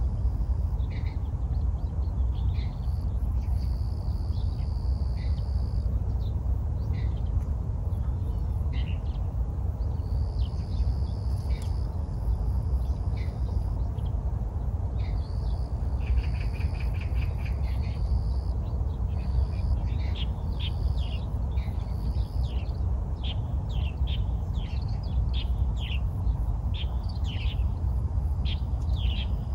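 Small birds chirping with short, high, falling notes, growing more frequent in the last third, over a steady low rumble. A few steady high tones a couple of seconds long come and go, with a brief fast trill about halfway through.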